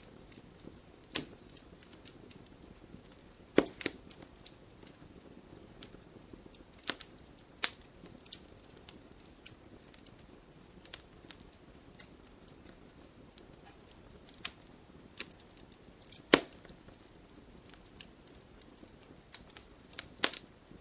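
Campfire crackling: burning wood giving irregular sharp pops and snaps over a faint steady hiss, with a few louder cracks scattered among the small ones.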